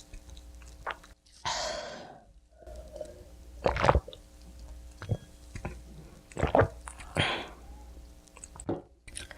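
Close-miked chewing of pizza: wet mouth clicks and squishy bites, repeated every second or so, with a longer breathy swish about a second and a half in and another near the end.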